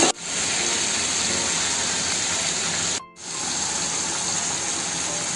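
Onions and whole spices sizzling in hot oil in a kadai, a steady hiss that breaks off briefly about three seconds in.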